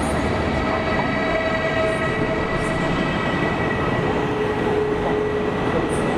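Passenger train running on the rails, a steady rumble with faint whining tones held underneath; one lower whine comes in about two-thirds of the way through, then fades.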